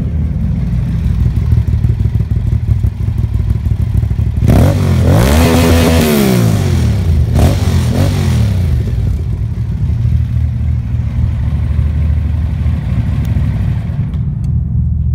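Aprilia Dorsoduro 750's V-twin engine through an Akrapovic full exhaust system, idling with a lumpy beat. About four seconds in it is revved up and falls back, then blipped twice more before settling back to idle, echoing in a tunnel.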